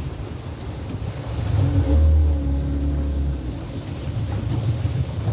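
A boat's motor runs steadily, its low hum dipping at first and coming back strong about two seconds in, with wind buffeting the microphone.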